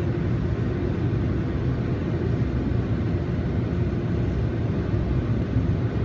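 Automatic car wash machinery running, heard from inside the car as a steady low rumble.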